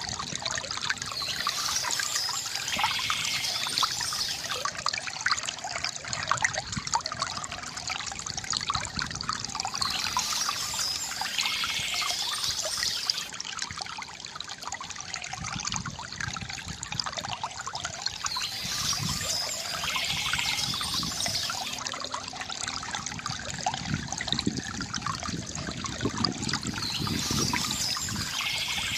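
Stream water trickling and babbling over stones without a break, with a brighter high-pitched rush that swells back in about every nine seconds.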